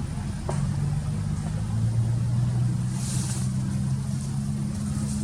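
A motor engine running steadily with a low hum, and a brief hiss about three seconds in.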